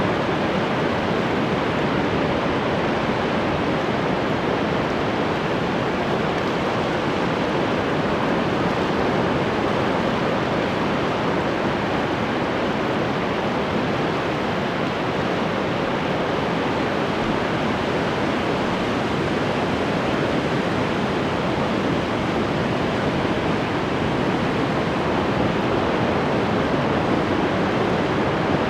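Ocean surf washing in a steady, even rush, with no single breaker standing out.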